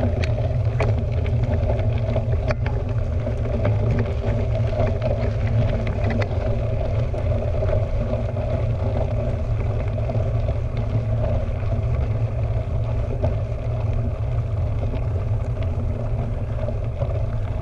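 Steady wind rumble on a GoPro's microphone while mountain biking, with tyre noise from the trail and a few scattered clicks and rattles from the bike.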